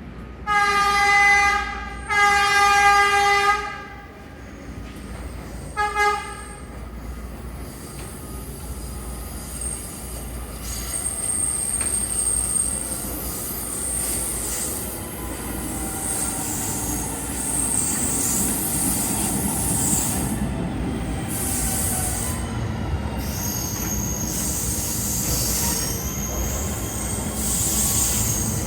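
R211A subway train's horn sounding two long blasts and then a short one, followed by the train running past with a building rumble and high-pitched wheel squeal.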